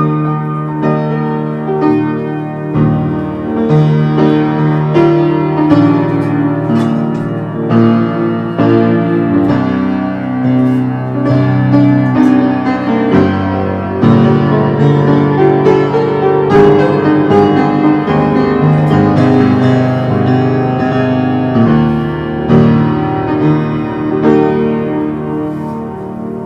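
Solo piano music, many notes in flowing sustained chords.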